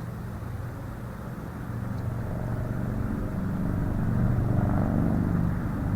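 An engine running steadily with a low hum, growing louder from about two seconds in.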